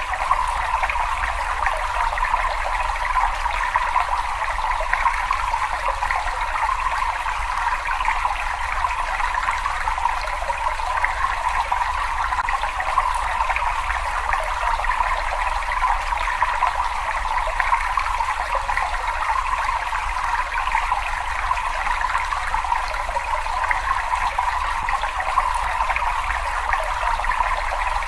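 Water running and trickling in a cave, a steady, unbroken rush with a low rumble beneath it.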